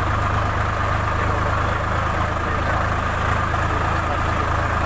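A JCB machine's diesel engine running steadily at an even speed.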